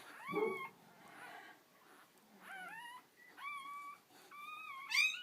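Newborn puppies crying: a string of short, high-pitched squeals, each rising and then holding, with the loudest one near the end climbing sharply.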